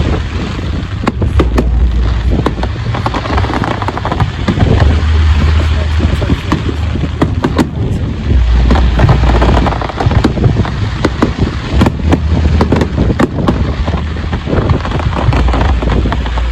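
Fireworks display: a dense, continuous barrage of crackling bursts and deep booms from aerial shells.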